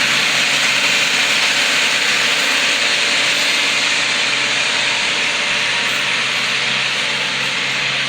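Tractor engines running hard under load, heard as a loud, steady rushing noise with a low hum underneath.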